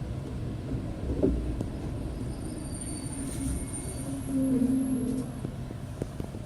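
Inside a V/Line passenger carriage, a steady low rumble as the train rolls slowly into the station. There is a knock about a second in. A faint high squeal runs through the middle, and a lower squealing tone near the end is the loudest part.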